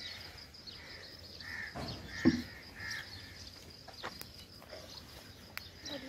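Short bird calls repeating every second or less over a steady high-pitched whine, with a single thump about two seconds in.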